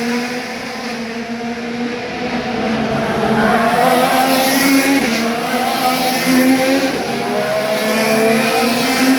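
Several IndyCar engines running together at once, their overlapping notes shifting in pitch as the cars go by.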